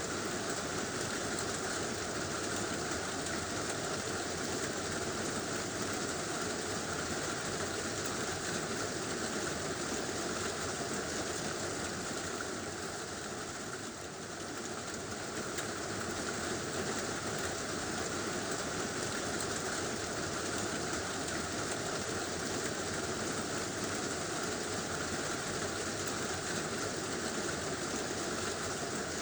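Heavy rain drumming steadily on a tin roof, easing slightly for a moment about halfway through.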